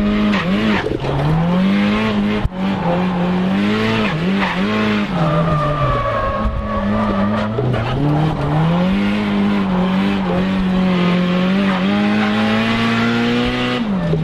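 Nissan Silvia S15 drift car's engine revving hard, its pitch climbing and dipping again and again as the throttle is worked through a drift, with tyres squealing. The revs drop just before the end.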